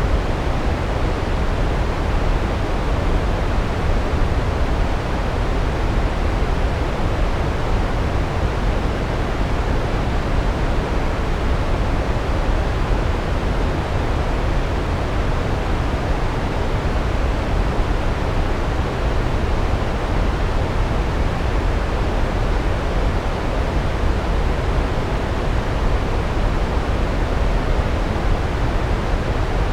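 Large waterfall: a steady, deep rush of falling water, even throughout with no distinct splashes or changes.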